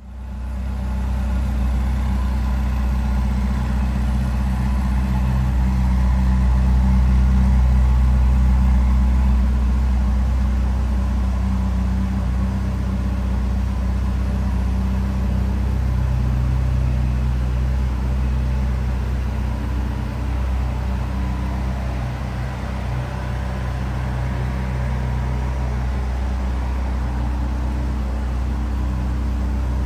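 Ferrari California T's 3.9-litre twin-turbocharged V8 idling steadily.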